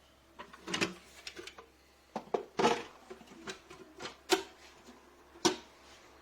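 A series of irregular sharp clicks and knocks, like hard objects being handled and set down, about ten in all, the loudest a little past the middle and again near the end.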